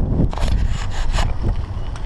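Wind buffeting the microphone of a camera on a moving mountain bike, a loud steady rumble. A few sharp rattling knocks come in the first half and about a second in, typical of the bike jolting over rough trail.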